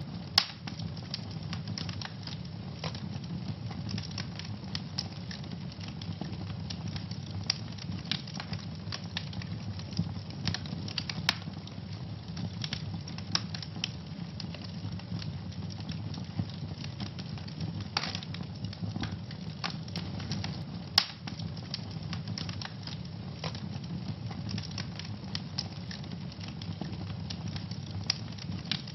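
Fire burning in a fireplace, crackling steadily with many small pops over a low steady rumble, and a few sharper, louder pops: one right at the start, one about eleven seconds in and one about twenty-one seconds in.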